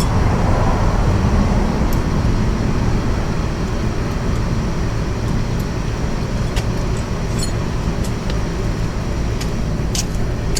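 A steady low rumbling background noise, with a few light metallic clicks and ticks from hand tools and parts while the motorcycle is being taken apart.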